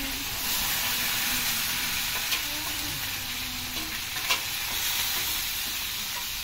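Food sizzling as it fries in a pan, with a few light clicks about two and four seconds in.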